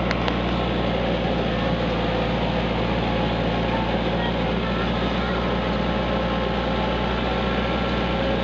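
Kubota tractor engine running steadily at an even speed, a low drone with a wide rushing noise over it.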